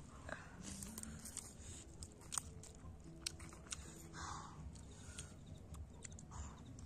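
Close mouth sounds of people eating by hand: chewing and biting, with scattered small clicks and taps.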